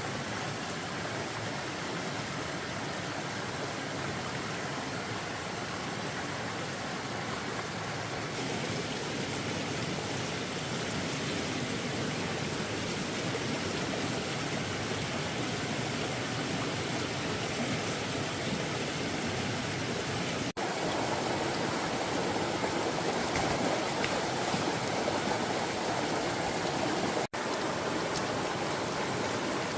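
Steady rush of flowing floodwater, broken twice by a split-second gap in the sound.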